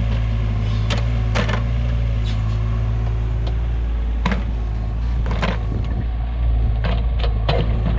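Kato 35 mini excavator's engine running steadily under load, with sharp clanks from time to time, about seven in all.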